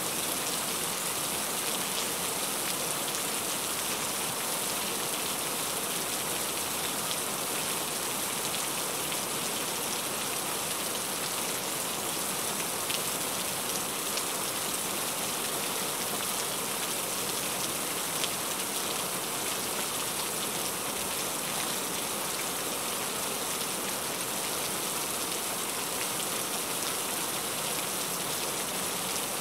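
Steady rain falling on a car's roof and windshield, heard from inside the car as an even hiss with scattered drop ticks and a few slightly louder hits.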